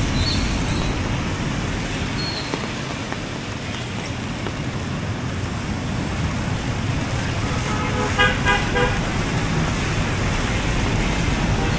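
Steady road traffic noise, with a vehicle horn honking in a few short toots about eight seconds in.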